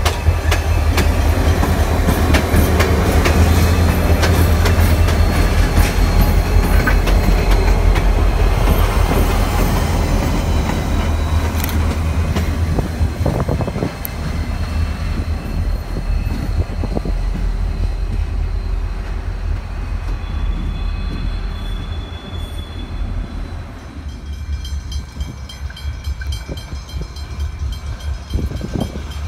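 Diesel-electric freight locomotives, XR class leading, passing close with a heavy steady engine rumble and the noise of wheels on rail. The sound eases a little past halfway and drops lower near the end.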